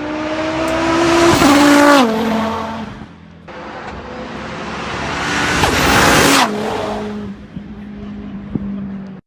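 Hillclimb race cars passing at full throttle, twice. The first engine note climbs and then drops sharply as it goes by about two seconds in; a second, louder pass builds up and falls away a little past the middle.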